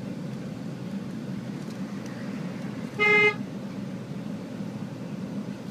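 A single short car horn honk about three seconds in, over steady road noise from a moving car.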